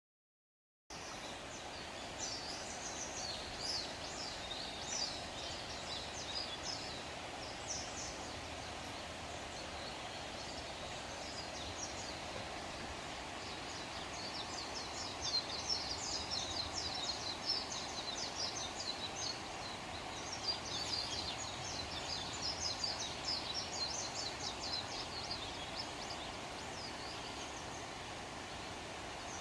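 Many small birds chirping and twittering in quick, high-pitched notes over a steady rushing background noise, busiest in the second half.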